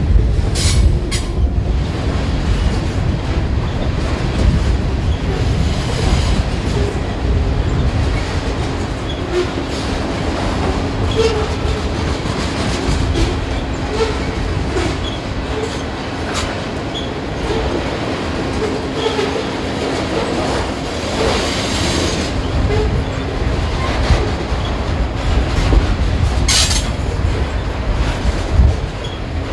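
Freight train cars rolling past: a steady rumble of wheels on rail, with a few sharp clacks over rail joints and scattered faint wheel squeaks.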